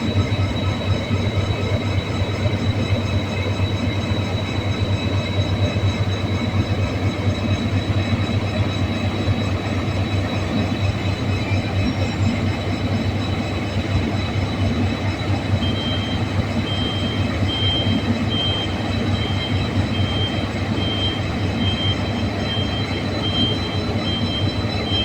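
KTMB diesel locomotives, a Class 25 and two Class 24s, running with a steady low rumble that holds level throughout. About two-thirds of the way in, a faint high-pitched beep starts repeating about one and a half times a second.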